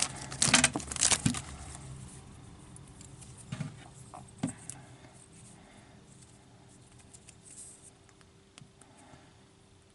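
Plastic packaging crinkling and clicking as it is handled for about the first second and a half, then quieter handling of a small plastic figure with two light knocks, fading toward quiet.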